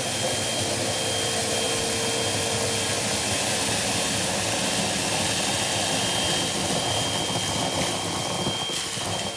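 Vacuum cleaner running at full speed with a steady whine, sweeping up a line of dry rolled oats.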